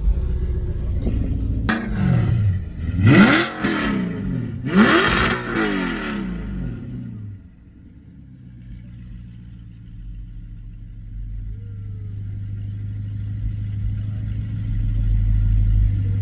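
A car engine revved hard twice, its pitch rising and falling about two seconds apart, after a sharp crack. Then a steady low engine drone grows slowly louder.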